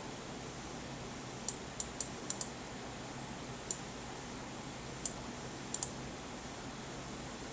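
About nine light, sharp clicks at irregular intervals, several close together in the first half, over a steady faint low hum.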